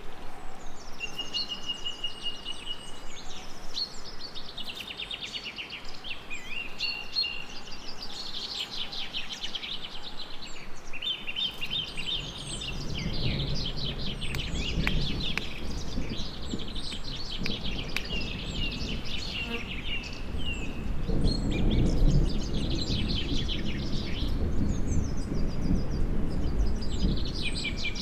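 Birds singing, many overlapping chirps and trills. About halfway through, a low rumble of distant thunder rolls in and grows louder for a while before easing off.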